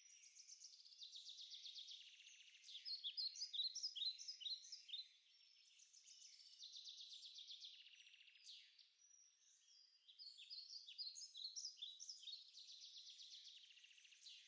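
Songbirds singing: quiet, high, fast trills and quick chirping notes in phrases a couple of seconds long, repeated over and over.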